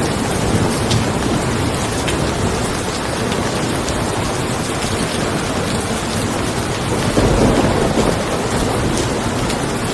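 Steady rain pattering on a car, with a low roll of thunder swelling in about seven seconds in and fading after a second or so.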